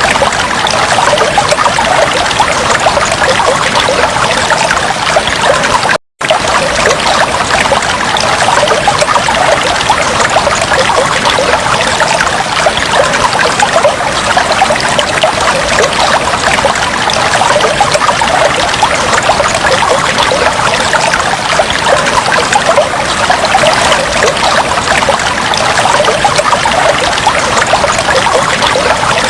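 Aquarium water trickling and bubbling steadily, a dense patter of small splashes and bubbles. The sound cuts out for a split second about six seconds in.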